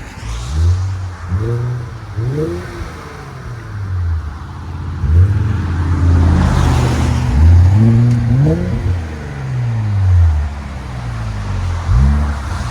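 2019 Infiniti Q50's 3.0L twin-turbo V6 revved through Flowmaster FlowFX mufflers and the stock resonators: several quick throttle blips, a longer rev that climbs and falls back about halfway through, then more blips. The tone is deep and clean.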